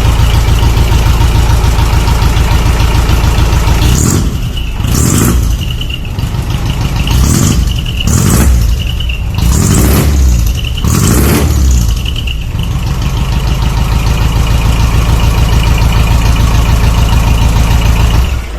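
Mitsubishi Fuso Canter's 4D33 four-cylinder diesel, fitted with a split exhaust manifold, idling with a steady pulsing beat, then blipped several times in quick succession from about four seconds in, before settling back to idle. The sound cuts off abruptly at the end.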